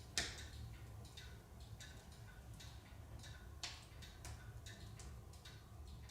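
Larch firewood burning in a wood stove, crackling with irregular sharp pops two or three times a second; two louder snaps, one just after the start and one a little past the middle.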